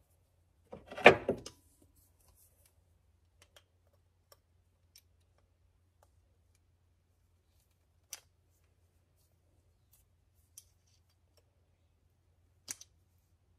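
Handling noise as a headlight bulb and housing are worked by hand: a short clattering burst about a second in, then a few scattered light clicks.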